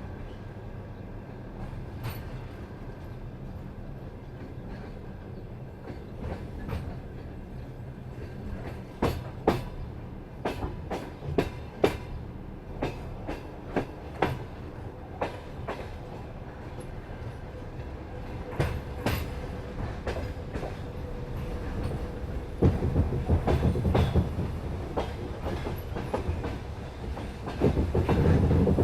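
Train wheels clacking over rail joints over a steady rumble, with irregular sharp clacks through the middle and a heavier, louder rumble and clatter building in the last several seconds.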